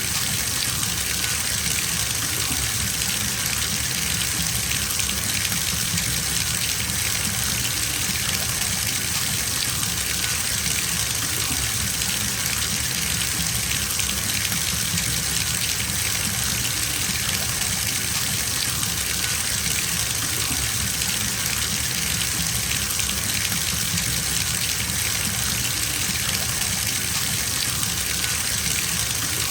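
Water running steadily from a bathtub tap, gushing into a filling tub in an even, unchanging rush.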